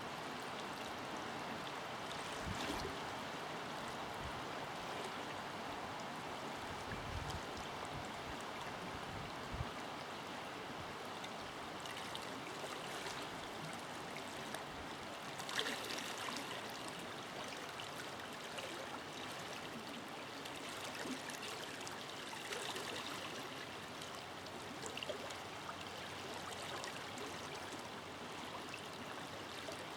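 A forest river flowing steadily, with a continuous rushing and gurgling of water and an occasional brief louder splash.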